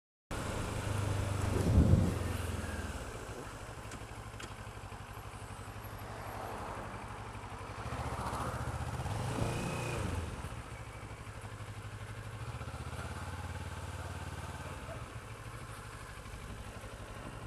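Motorcycle engine running while riding along at low revs, with the note swelling louder about two seconds in and again around eight to ten seconds.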